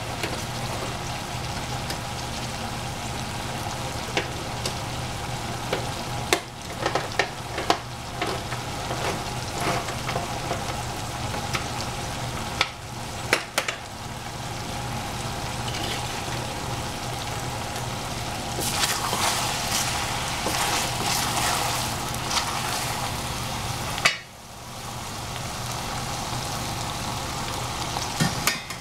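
Eggplant and squash sizzling as they fry in a pan, with a utensil knocking sharply against the pan now and then as they are stirred. The sizzle grows louder for a few seconds about two-thirds of the way through.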